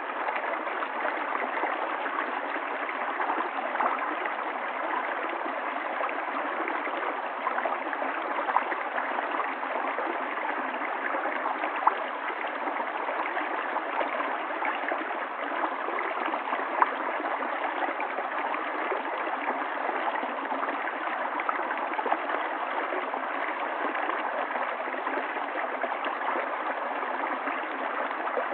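Stream water flowing down a valley, a steady rushing with small splashes here and there.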